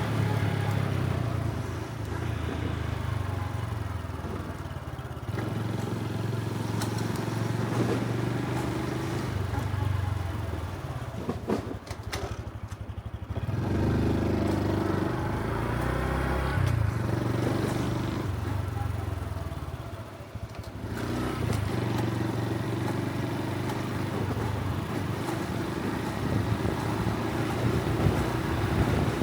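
Honda Super Cub C125's single-cylinder four-stroke engine and exhaust running on the road. The engine note drops off twice, around twelve and twenty seconds in, then picks up again.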